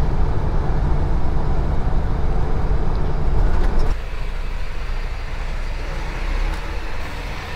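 Heavy truck on the move: a steady low engine and road rumble that changes and gets a little quieter about four seconds in.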